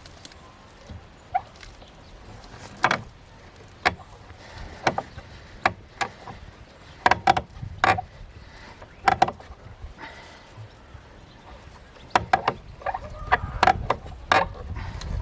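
Irregular knocks and clatter of hard objects being handled during work around the boat, a dozen or so sharp strikes at uneven intervals, denser near the end.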